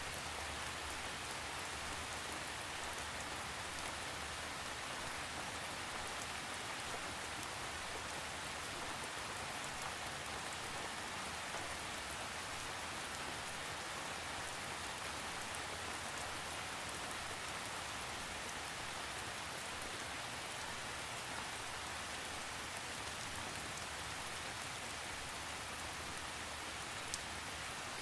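Steady rain falling, an even hiss with scattered faint drop ticks and no thunder.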